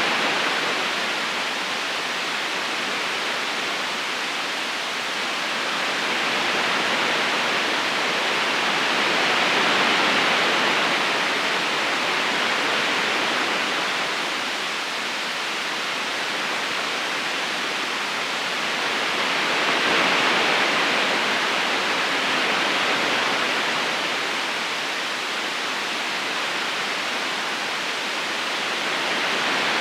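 River current running, a steady rush of flowing water that gently swells and eases about every ten seconds.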